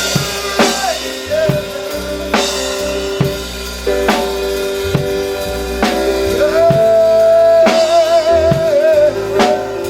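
Live gospel music: a drum kit played with kick, snare and cymbal hits over sustained keyboard chords. A voice holds a long wavering note in the second half.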